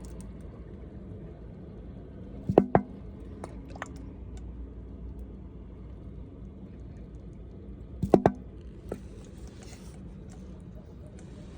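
Small gasoline engine of a 1.5-inch gold dredge running steadily, with a low, even hum. Sharp knocks break in twice, about two and a half and eight seconds in.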